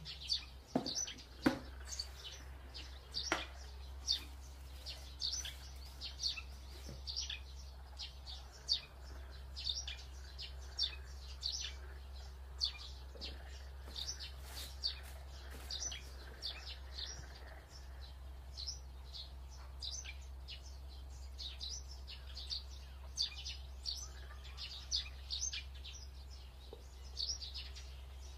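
Small birds chirping over and over: short high chirps, one or two a second, over a steady low hum. A few soft knocks in the first few seconds.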